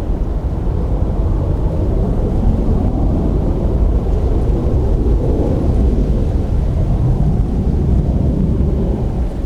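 Low, steady jet rumble of a departing Boeing 737-800's CFM56 engines after takeoff, swelling slightly about halfway through.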